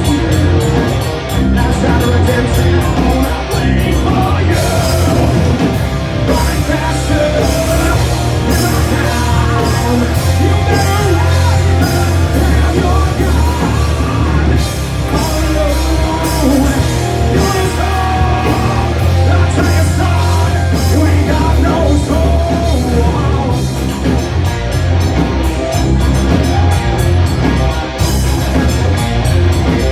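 Live rock band playing a song loudly with full drums and instruments, a singer's vocals over the top.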